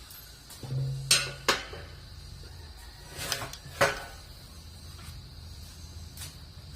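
Sharp metallic clinks and knocks of metal tools and parts being handled: two about a second in, and two more between three and four seconds.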